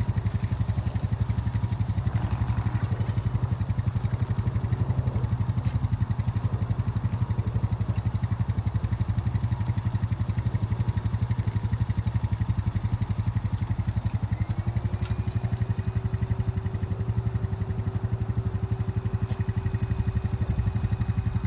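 A small engine idling steadily with a fast, even low pulse; about two-thirds of the way in a steady whine joins it and holds.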